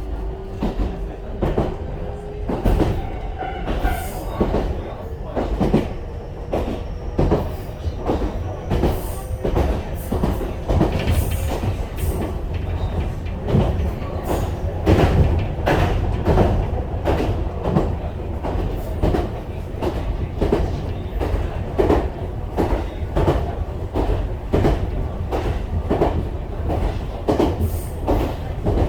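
Ichibata Electric Railway train running, heard from inside the carriage: a steady rumble with wheels clicking and knocking over the rails. A faint whine rises in pitch over the first several seconds as the train picks up speed.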